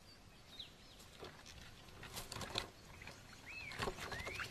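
Quiet outdoor ambience with a few short bird chirps that rise and fall, more of them near the end, and a few soft clicks in the middle.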